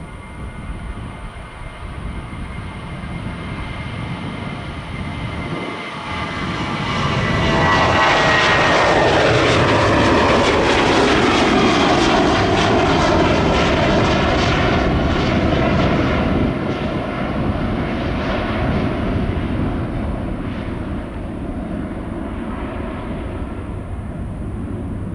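Jet airliner passing close by. Its engine whine falls in pitch as it goes past, about a quarter of the way in, and the sound is loudest for several seconds before easing into a fading rumble.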